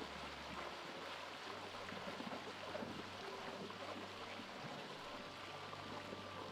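Running stream water, with soft background music holding low sustained notes that change every second or two.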